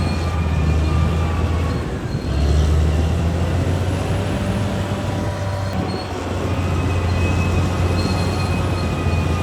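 Crawler bulldozer working: its diesel engine runs with a steady low drone under a thin, high squeal from the tracks. The engine note dips briefly about two seconds in and again near six seconds, then picks back up.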